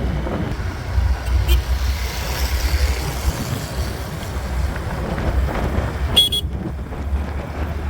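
Running noise of a moving motor vehicle on a rough road, with heavy low wind rumble on the microphone. A short high-pitched toot comes about six seconds in.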